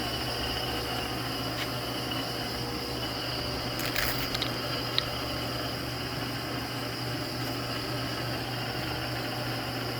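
Electric motors of a lathe and its rotary phase converter running with a steady hum. A few light clicks come about four and five seconds in.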